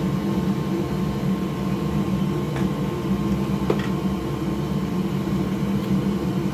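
Steady whirring hum of an electric fan running, with two faint ticks a few seconds in.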